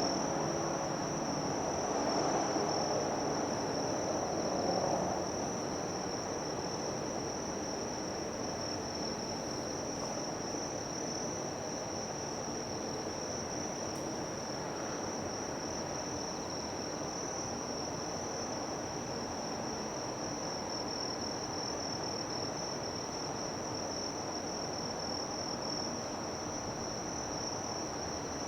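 Insects shrilling in a steady, unbroken high drone over a low background noise. A broader mid-range sound fades out over the first five seconds.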